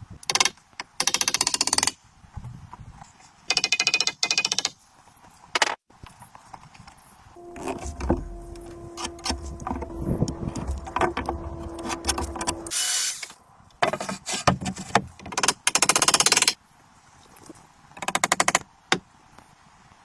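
Power-tool work in a woodworking shop: several bursts of about a second each of very rapid rattling clicks, and a few single knocks. A motor runs steadily for about five seconds in the middle.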